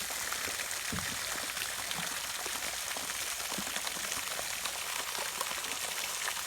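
Steady water noise with many faint small ticks scattered through it.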